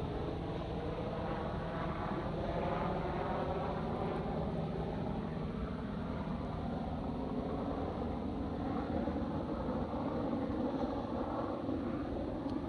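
Aircraft passing overhead: steady rushing engine noise, with a slowly shifting, phasing character throughout.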